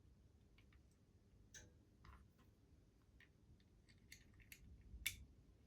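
Scattered small clicks and taps of tiny parts being handled and fitted into a Märklin HR 800 N model locomotive, the sharpest about five seconds in, otherwise near silence.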